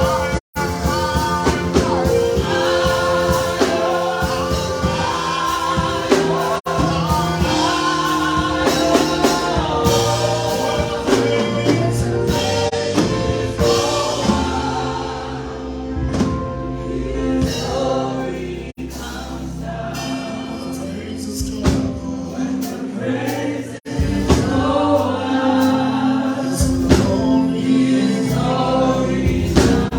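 Gospel worship music: a choir singing over a band with sustained keyboard tones.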